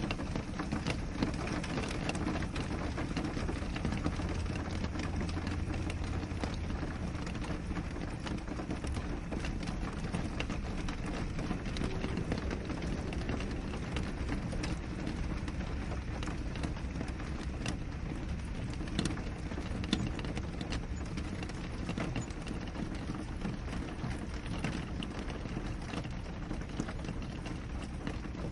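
Steady rain on a window glass, a continuous wash with many small individual drop ticks scattered through it.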